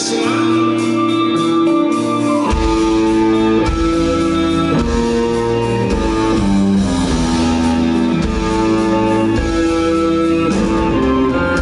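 Rock band playing live, an instrumental passage between sung verses led by guitar, with bass coming in about two and a half seconds in.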